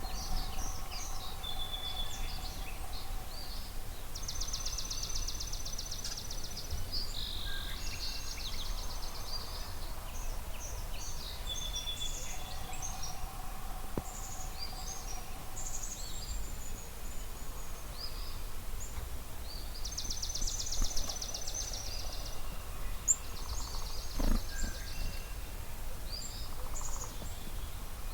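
Dawn chorus of several songbirds at a spring marsh: many short chirps and whistles, with a long, fast, high trill sung twice, over a steady low rumble. One sharp knock sounds near the end.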